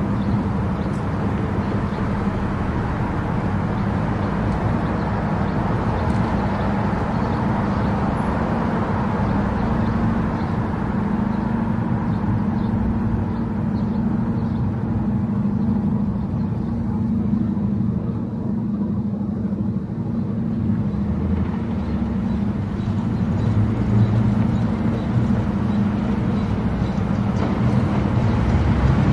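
Car travelling at highway speed on an expressway: steady engine and tyre-on-road noise with a constant low hum, the low rumble growing a little stronger near the end.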